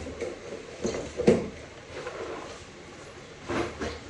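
A few short knocks and clunks of transmission parts being handled, the loudest about a second in and two quieter ones near the end.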